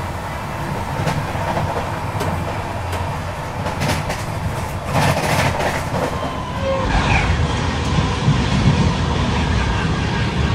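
Running noise of a moving passenger train heard from inside the coach: a steady rumble and clickety-clack of wheels on rail while it passes another train on the next track. A few sharp clicks come around the middle, and the low rumble grows heavier about two-thirds of the way in.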